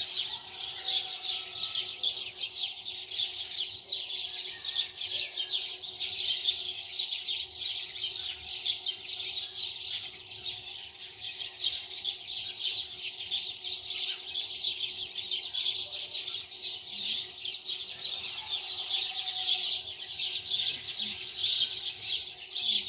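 Many small birds chirping continuously in a dense chorus, with a faint steady hum underneath.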